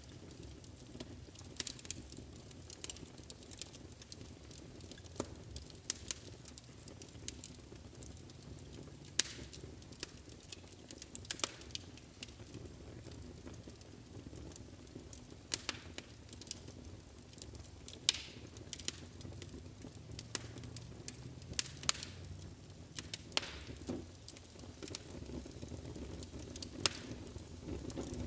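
Wood fire burning in a fireplace: sharp, irregular crackles and pops over a soft low rumble of the flames.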